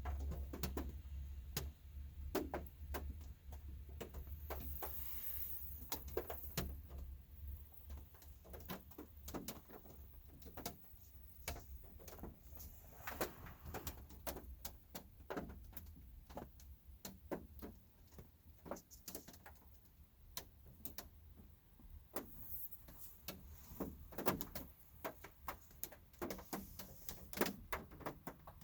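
Light rain heard from inside a car: scattered raindrops tapping irregularly on the roof and windows. A low hum fades out over the first several seconds.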